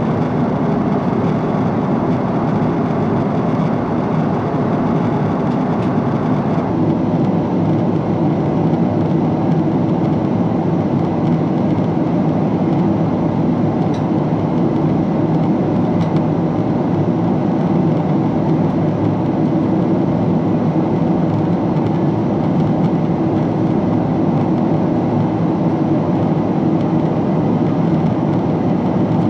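Steady engine and airflow noise inside the cabin of a Boeing 777-300 airliner. The higher hiss drops away about seven seconds in, leaving a lower rumble, with two faint clicks a couple of seconds apart midway.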